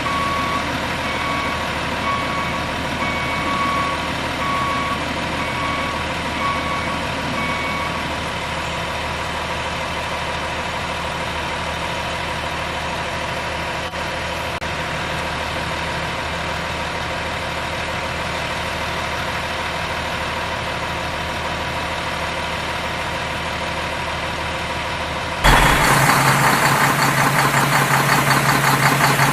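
Truck engine running steadily while a reversing beeper sounds a regular series of beeps for the first eight seconds or so. About 25 seconds in, it cuts abruptly to a louder, rougher engine sound.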